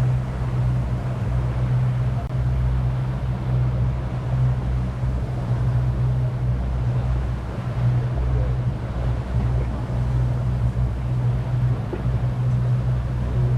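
A boat's motor running at a steady speed, a constant low hum, over an even hiss of wind and water.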